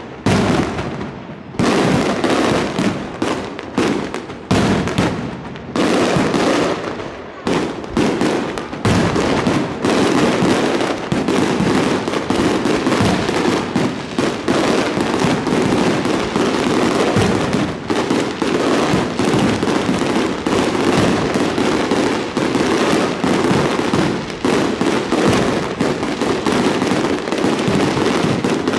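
Aerial fireworks display: shells bursting in rapid succession, the bangs coming ever closer together from about nine seconds in until they run into a near-continuous barrage.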